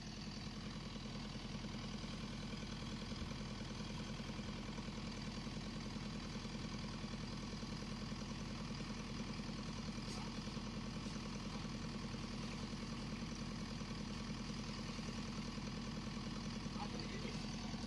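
Excavator engine idling steadily with an even hum.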